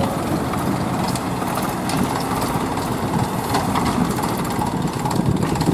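Heavy diesel engine of a tractor-type machine running steadily.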